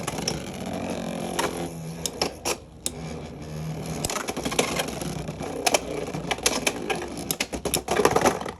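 Two Beyblade X spinning tops battling in a plastic stadium: a steady spinning hum under rapid clacking collisions, with a burst of louder hits near the end as the battle ends in a knockout.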